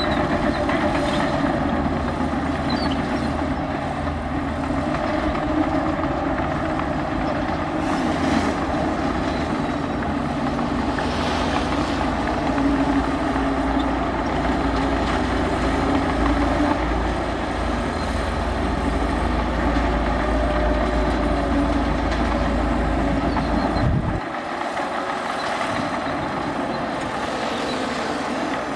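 Heavy diesel earthmoving machinery running, its engine pitch rising and falling with load. The deep rumble drops away suddenly near the end while the engine sound carries on.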